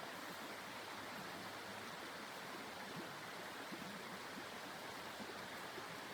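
Faint, steady hiss of blizzard wind.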